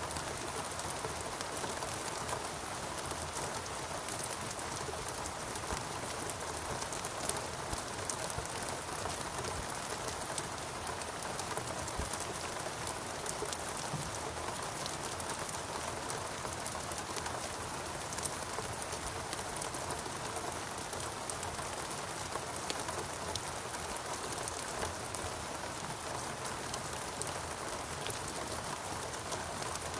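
Steady rain, with the ticks of many individual drops landing close by.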